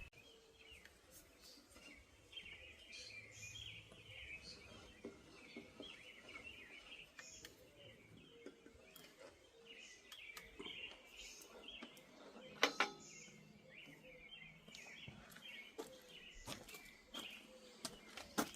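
Birds chirping in the background, with scattered light clicks and knocks; the loudest is a sharp click about two-thirds of the way in.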